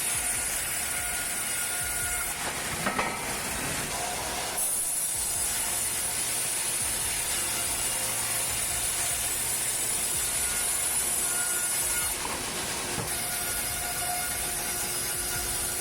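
Band sawmill running, a steady mechanical whir with a high hiss as the blade cuts through a log. The sound shifts briefly about three seconds in and again near twelve seconds.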